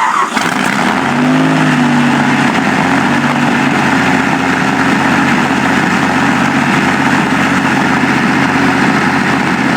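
Rolls-Royce Merlin V12 aero engine in a car, running loud: it picks up speed about a second in, then runs steadily.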